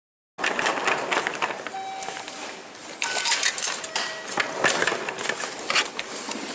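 Busy ambience full of clicks and clatter, with a few short electronic beeps at different pitches, starting abruptly from silence just after the start.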